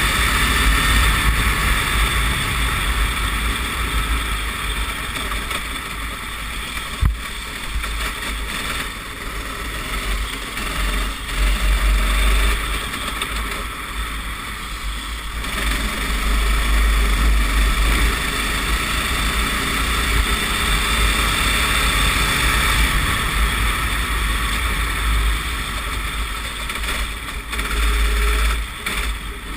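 Racing kart engine running on track, its level swelling and dropping as the kart accelerates and slows through the lap, over a heavy low rumble. A single sharp click about seven seconds in.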